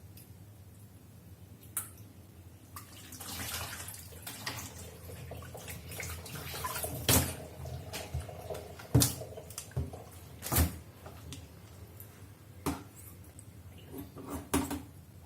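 Water splashing in a kitchen sink while pork intestines are washed by hand, with several sharp knocks against the sink or bowl.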